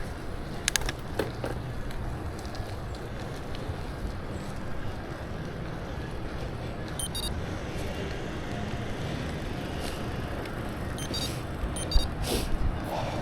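Steady rumble and hiss of a bicycle ride, with a few sharp clicks and rattles, most of them near the end.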